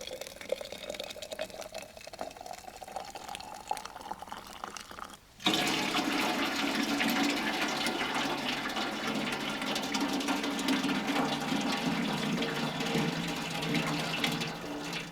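Water poured into a container, its pitch rising steadily as the vessel fills. About five seconds in it cuts sharply to a louder, steady rush of running water.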